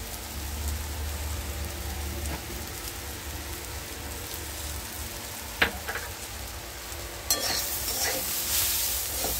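Chopped water spinach sizzling in oil in a non-stick kadhai, with a low hum underneath and a single sharp tap a little past halfway. About seven seconds in, the sizzle suddenly gets louder as a spatula stirs the greens against the pan.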